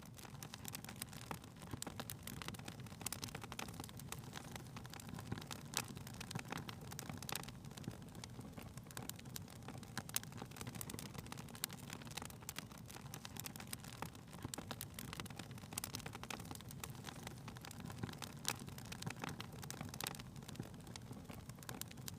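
Wood fire crackling in a fireplace, with frequent irregular pops and snaps over a low steady rumble.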